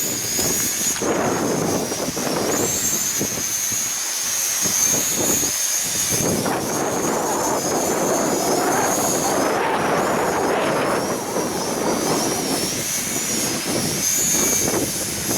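Small drone flying, its propellers giving a high, steady whine that wavers slightly in pitch. Heavy wind rumbles on the microphone underneath.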